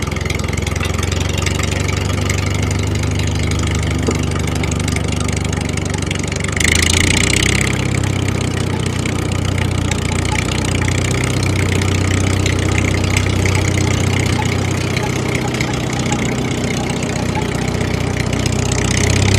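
A small engine running steadily at idle on a homemade mini tractor, with a short louder hiss about seven seconds in.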